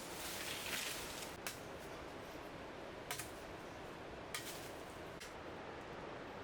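Steady rush of a waterfall, with four sharp clicks spread irregularly over a few seconds and a brief soft rustle near the start.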